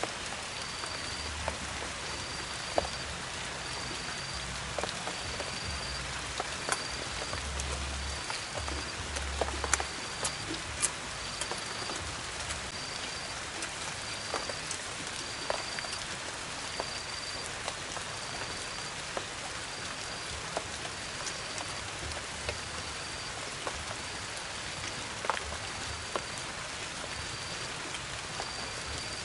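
Steady hiss of light rain falling on leaves, with a short high chirp repeating about once a second and occasional light clicks.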